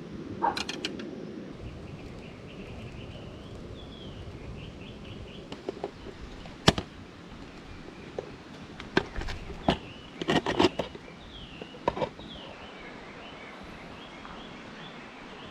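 Small birds chirping in the background, with scattered sharp knocks and clicks: a few near the start, a loud single knock about seven seconds in, and a quick cluster around ten to eleven seconds.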